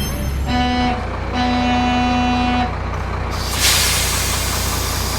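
Truck sound effect: a low engine rumble under a short horn toot and then a longer honk, followed about three seconds in by a loud air-brake hiss that slowly fades.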